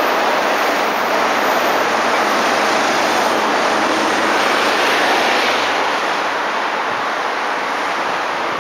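Electric commuter train running along the track, a steady rushing noise that eases slightly about six seconds in.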